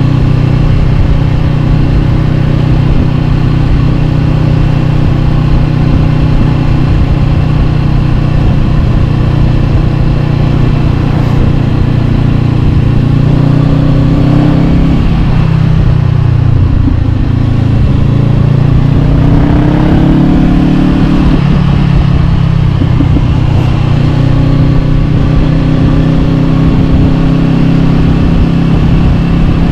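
Honda CB500X parallel-twin engine through an Arrow Pro-Race slip-on exhaust, running steadily while riding. About halfway through, the pitch drops as the throttle is eased off, then rises again as the bike accelerates.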